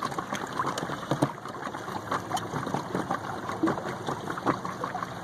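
Water lapping and splashing against the coroplast hull of a small boat moving under electric power, a steady wash broken by many small irregular splashes.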